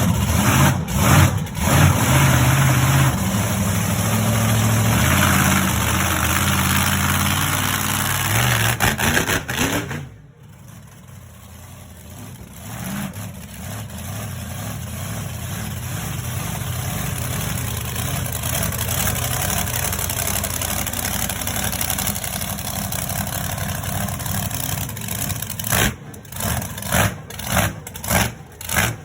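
Monster truck engine running loud with shifting revs, dropping suddenly to a much quieter steady run about ten seconds in. Near the end it gives a series of short revving blips.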